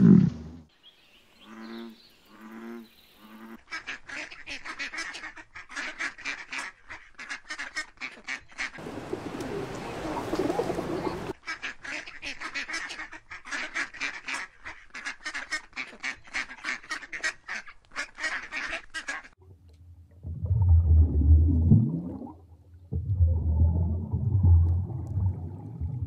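Mallard ducks quacking in long runs of rapid calls, broken midway by a couple of seconds of rushing noise. It opens with a short, loud, low grunt, and about three-quarters through, deep low rumbling sounds of another kind take over.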